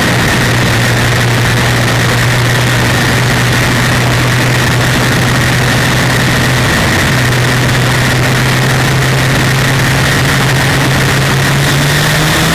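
1932 Ford super modified's 300 cubic-inch straight-six running hard at a steady pitch, heard on board with wind noise over it. The note dips briefly about seven seconds in and climbs near the end.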